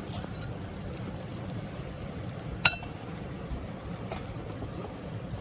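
Steady low outdoor rumble with one sharp clink about two and a half seconds in.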